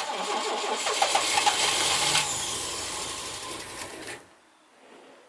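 1996 Chevrolet Astro's 4.3-litre V6 cranked by the starter in −25 °C cold after three months unused, struggling to catch. The cranking starts abruptly and cuts off suddenly after about four seconds without the engine settling into a run.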